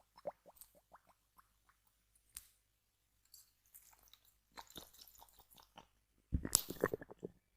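Quick ASMR tapping on small objects: a run of rapid light taps, a single sharp click, then scattered rustling, and near the end a loud, dense flurry of taps.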